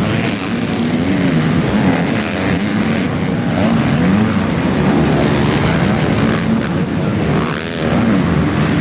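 Motocross race bikes running hard, several engines overlapping, their pitch rising and falling over and over as the riders open and close the throttle and shift.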